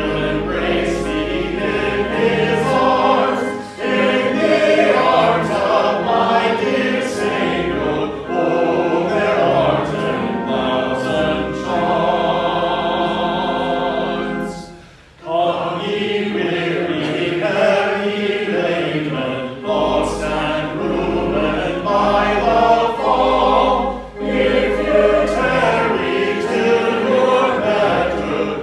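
Congregation singing a hymn with instrumental accompaniment under the voices. The singing breaks briefly about halfway through, between lines.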